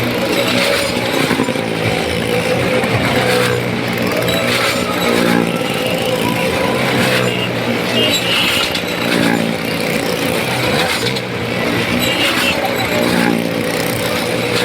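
Stunt motorcycle engines running continuously at high revs as they circle the wall of a well-of-death drum, the pitch wavering up and down.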